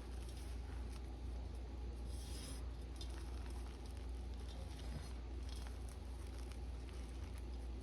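A bar of reformed blue gym chalk being crushed and crumbled by hand: soft, continuous crunching and crumbling of powder, with a few sharper crunches about two, three and five seconds in, over a steady low hum.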